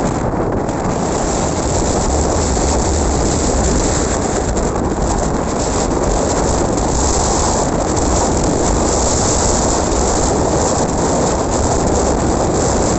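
Strong wind blowing across the microphone: a loud, steady rush with heavy low rumble.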